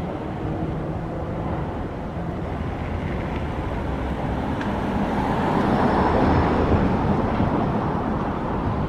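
Street traffic rumbling past at a tram stop, swelling to its loudest about six seconds in as a vehicle passes close by.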